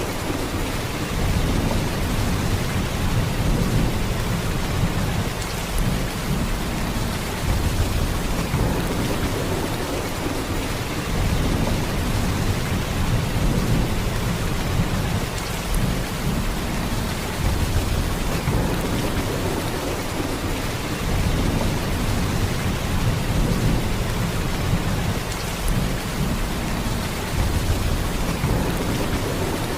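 Heavy rain in a steady downpour, an even hiss of drops with a deep low rumble that swells and eases every few seconds.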